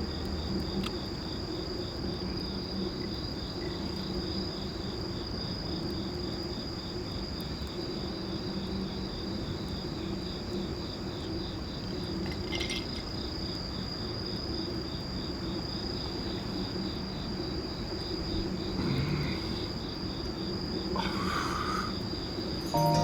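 Crickets chirping: a continuous high trill with an evenly pulsing chirp just below it, and a few brief faint noises near the end.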